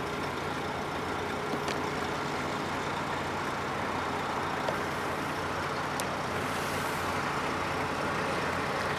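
Steady background hum of road traffic, with a few faint clicks.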